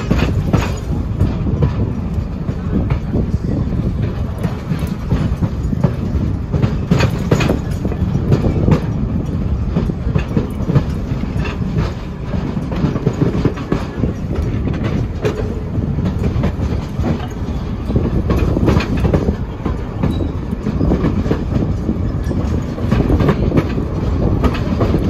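Railroad passenger cars rolling along the track, heard from the tail of the train: a steady, loud rumble of steel wheels on rail, broken by frequent irregular clicks and clacks as the wheels pass over the track.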